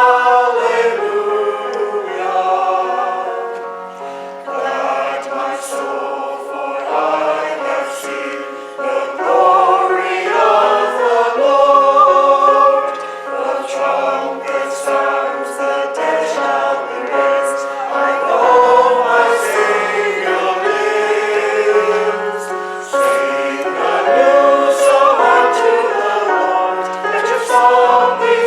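Church choir singing in several voice parts, with sung words and changing notes.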